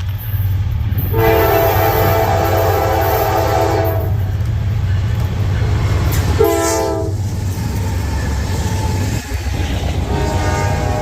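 Diesel freight locomotive's air horn sounding over the low rumble of the passing train: one long blast, then a short one that drops in pitch, then another long blast beginning near the end, the pattern of a grade-crossing signal.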